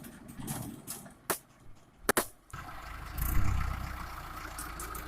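A few sharp knocks, then from about halfway in a four-cylinder diesel tractor engine, the Mahindra Arjun 555 DI, running with a steady low rumble. It swells briefly soon after it comes in, then holds even.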